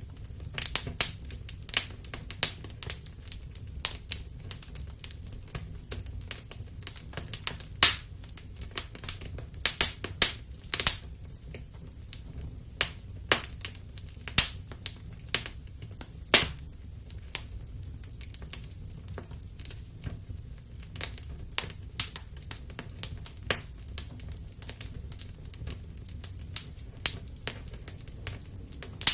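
Wood fire crackling in a fireplace: irregular sharp pops and snaps, several a second, with a few louder ones, over a low steady rumble.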